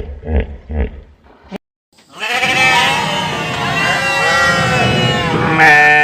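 Sheep bleating: several overlapping, wavering bleats from about two seconds in, after a few short low calls at the start.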